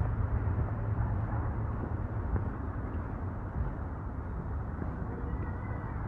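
Wind buffeting the microphone outdoors: an uneven, gusting low rumble with a lighter rushing hiss above it.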